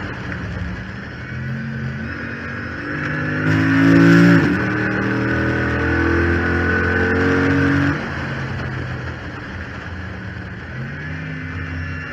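Chrysler 300 SRT8's 6.4-litre HEMI V8 under hard acceleration on track, heard from the hood scoop. It peaks with a quick gear change about four seconds in and pulls on until it drops off suddenly at about eight seconds. It runs lower for a while, then builds again near the end. A steady whine sits over the engine, which the owner puts down to the failed power steering pump, saying it makes the car sound like a Hellcat.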